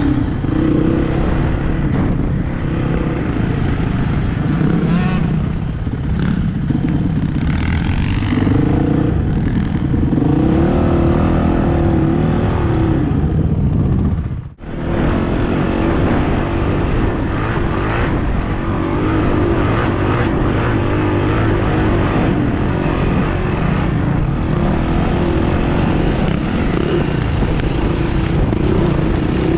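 Dirt bike engine running while riding, its pitch rising and falling with the throttle, cut off briefly about halfway through.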